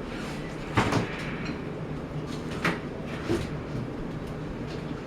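A steady rumbling background noise with three short knocks, the loudest a little under a second in.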